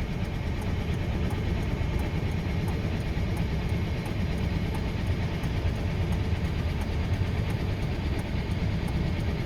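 Heavy-lift helicopter running up its rotors on the ground without lifting off, heard as a steady low rumble with a fast chop.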